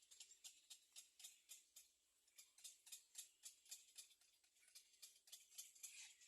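Faint, rapid high-pitched ticking chirps, about four a second, from olive-backed sunbird nestlings begging in the nest.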